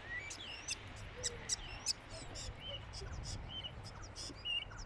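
Common starling singing: a quick, jumbled run of sharp clicks, rising and falling whistles and short chirps.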